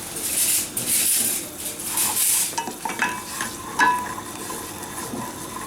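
Liquid sizzling and bubbling in a hot pan while a metal utensil stirs it, clinking against the pan several times with short ringing tones in the second half.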